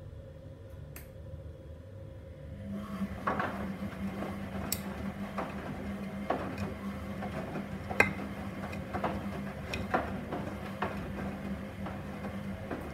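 Gorenje SensoCare washing machine's drum motor starting up about two and a half seconds in with a steady hum, the drum turning with irregular clinks and knocks from the tumbling load.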